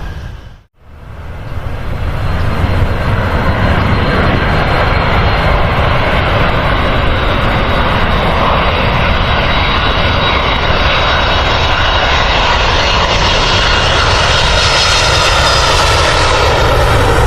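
Airliner engines running loud and steady after a brief dropout at the start, the noise growing brighter and hissier toward the end as the aircraft comes closer.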